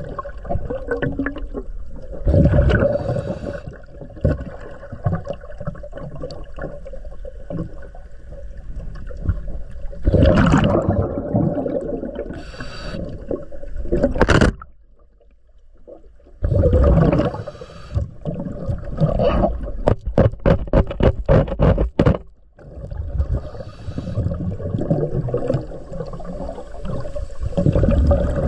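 Diver breathing through a scuba regulator underwater: rushing inhalations and bubbly, gurgling exhalations every few seconds, with a quick run of popping bubbles about two-thirds of the way through.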